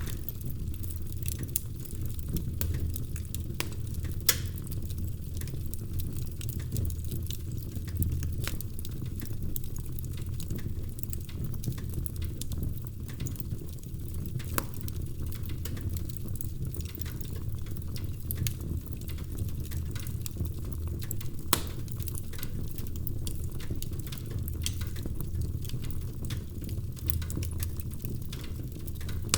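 Wood fire crackling in a fireplace: a steady low rumble with scattered small pops and snaps, and now and then a louder pop.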